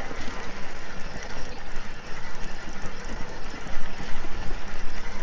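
Steady rolling ride noise: tyres on a sandy gravel road, with wind rumbling on the microphone.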